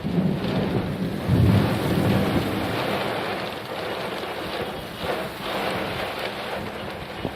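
Heavy rain falling steadily, with a deep rumble swelling about a second and a half in.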